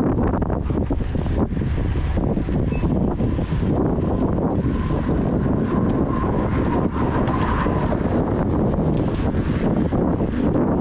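Steady rush of wind on the microphone of a moving bike-mounted action camera, with a low rumble throughout and a faint thin tone for a few seconds in the middle.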